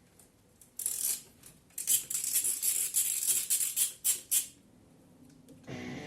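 Ratchet wrench clicking in quick runs as bolts are unscrewed from the GY6 157QMJ scooter engine, with a short burst about a second in and a longer run from about two to four and a half seconds.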